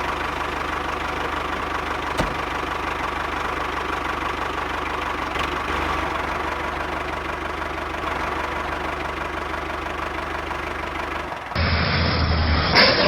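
A small engine running steadily at an even speed. Near the end it gives way abruptly to a louder, different sound.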